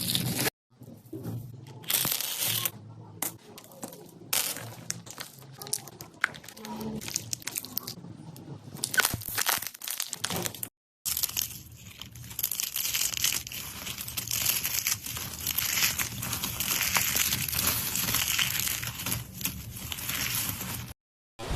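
Crisp crunching and crinkling of something brittle being crushed or crumpled, in a run of short clips that cut off abruptly about half a second in and again about eleven seconds in.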